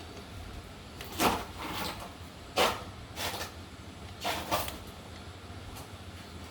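Six sharp knocks and clinks spread over a few seconds, over a steady low hum.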